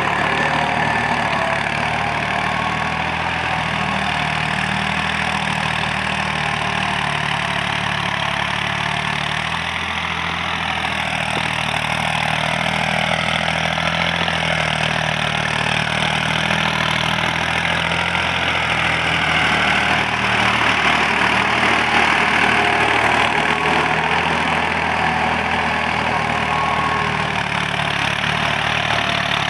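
New Holland TT55 tractor's diesel engine running steadily at an even speed.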